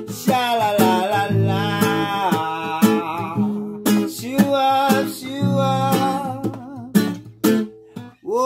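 Acoustic guitar strummed in a steady rhythm, with a voice singing long, wavering notes over it.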